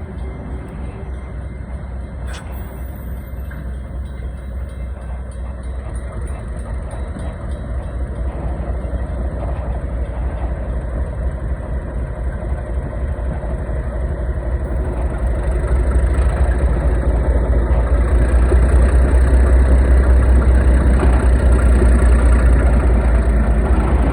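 Heritage train approaching, its low rumble growing steadily louder and loudest near the end.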